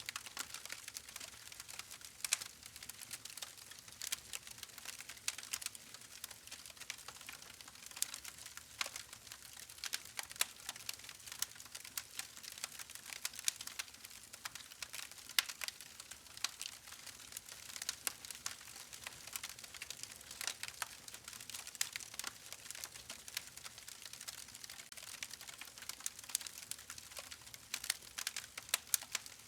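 Wood fire crackling: a constant run of small irregular snaps and pops over a faint hiss, with a few louder cracks scattered through.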